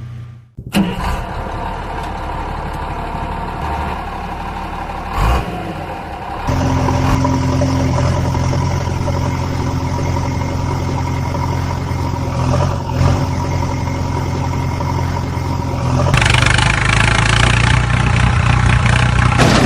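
A vehicle engine running steadily, in sections that change abruptly. About three seconds before the end it turns louder, with a rushing noise over the engine.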